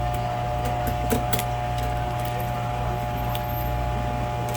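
Steady mechanical hum with a few sharp clicks and knocks: a cluster about a second in and one more past the middle.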